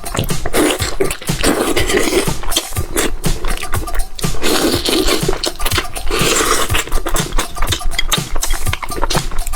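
Close-miked chewing and lip-smacking on braised chicken heads: a dense run of quick wet clicks and smacks, with louder stretches around two and five to six seconds in.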